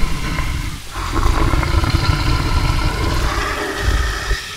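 Bear growling: long, low, loud growls with a short break about a second in and another near the end.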